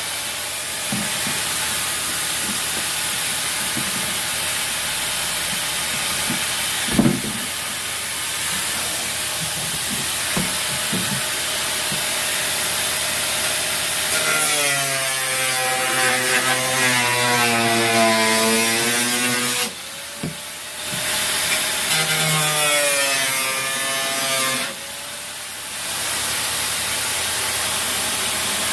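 Power tool running and cutting. Its motor pitch sags and recovers as it bites, and it stops briefly twice in the second half.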